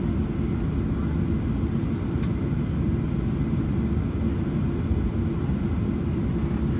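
Boeing 737-800's CFM56-7B engines and airflow heard inside the cabin as a steady, dense low rumble, with a faint click about two seconds in.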